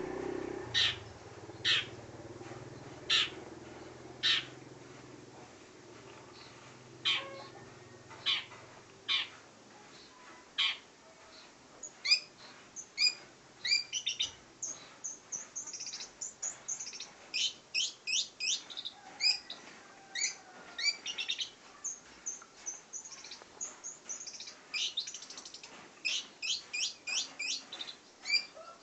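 Long-tailed shrike (cendet) calling: harsh single notes about once a second, then from about twelve seconds in a quick, continuous run of short chirping song notes.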